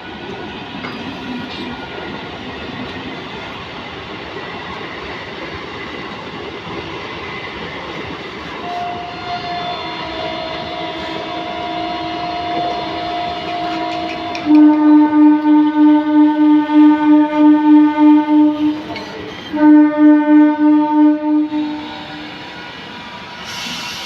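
Electric locomotive train running with steady rail noise while its horn sounds. A horn tone comes in somewhat before the middle, then two long, loud horn blasts with a fast pulsing waver follow, the second ending a few seconds before the end.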